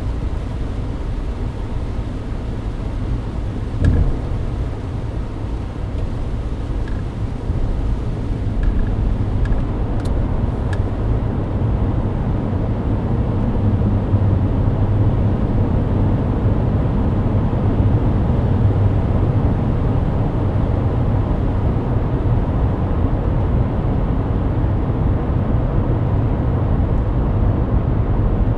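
Steady road and engine rumble inside the cabin of a Mercedes-Benz W124 cruising on a wet expressway, with tyre hiss over the low drone. A single thump comes about four seconds in, and a few faint ticks follow a few seconds later.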